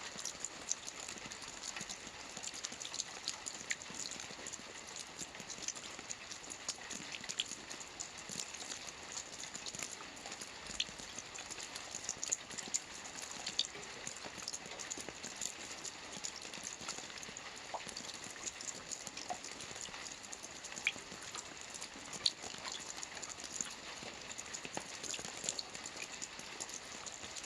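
Steady rain falling on a lake, a continuous hiss of drops on water with scattered sharper individual drips ticking through it.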